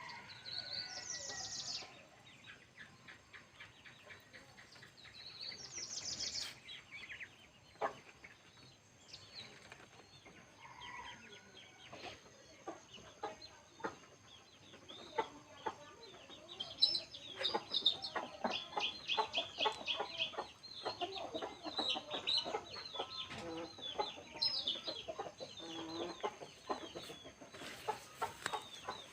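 Chickens clucking and calling, busiest in the second half, over many small sharp clicks and a faint steady high tone.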